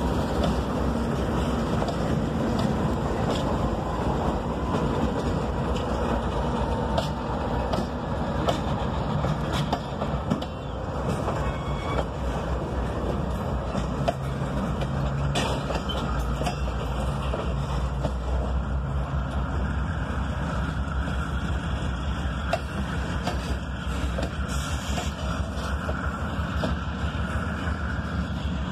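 CSX freight train passing close by: diesel locomotives running, then freight cars rolling on the rails with a steady rumble and scattered wheel clicks.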